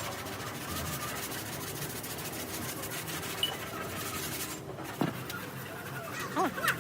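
Steady rough rubbing or rasping noise that breaks off about four and a half seconds in, with a few short clucking calls near the end.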